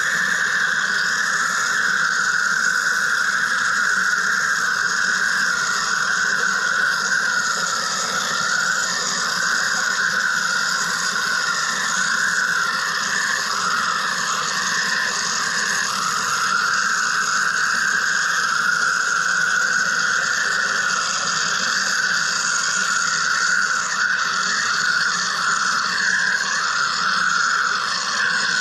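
Wire EDM (wire electrical discharge) machine running: a steady high-pitched whine that wavers slightly in pitch, with a fainter hiss above it.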